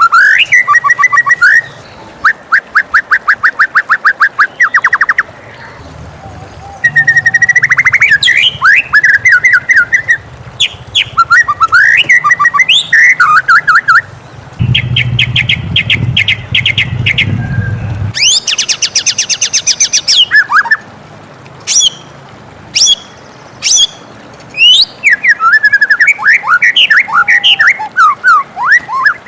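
White-rumped shama singing a long, varied song: loud whistled notes, fast even trills and high rattling phrases, each phrase followed by a short pause.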